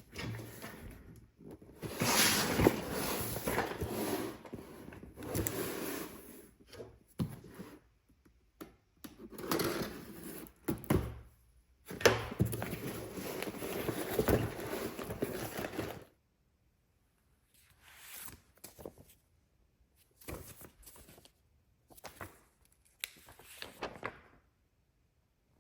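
Rustling, sliding and knocking as LEGO set packaging and bricks are handled, in stretches that stop and start, with a few sharp thunks. The handling turns sparser and quieter in the last third.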